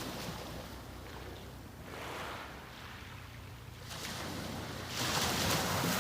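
Sea waves breaking and washing up the beach in repeated surges, with the loudest wash arriving about five seconds in.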